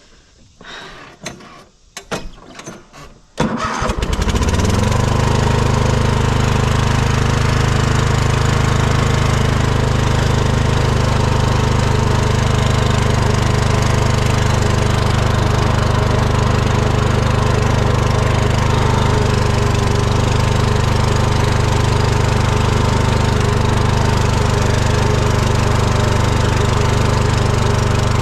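A few clicks, then a small engine starts about three and a half seconds in, rises briefly in pitch and settles into a steady run.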